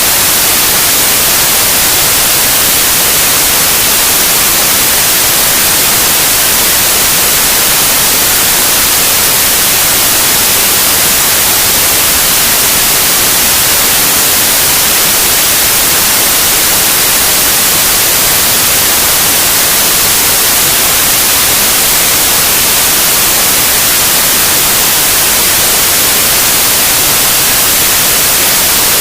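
Loud, steady white noise: an even electronic hiss across all frequencies, with no change, breaks or other sounds.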